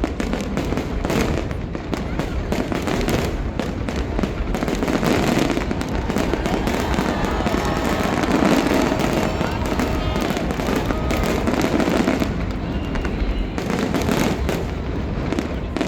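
Fireworks display: a dense, continuous run of bangs and crackling bursts, thickest in the middle.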